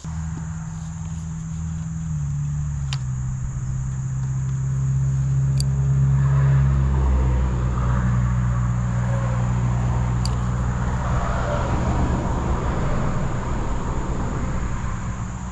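A motor running with a low, steady hum that drops slightly in pitch about two seconds in and grows louder around the middle.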